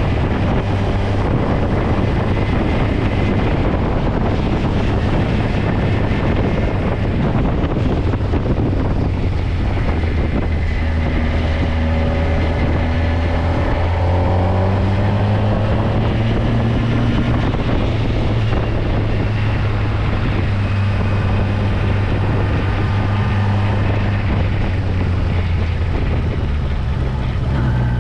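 Motorcycle engine running while riding, its steady note stepping up and down in pitch a few times, with wind noise on the microphone.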